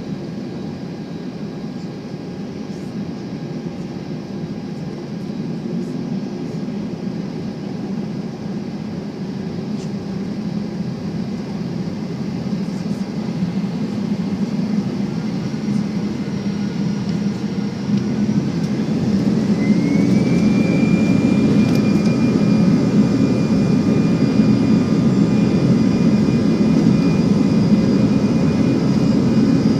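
Airbus A320-200 jet engines heard from inside the cabin, a steady rush that slowly grows. About two-thirds of the way through, a high engine whine glides up in pitch and holds there as the sound gets louder: the engines spooling up to takeoff thrust.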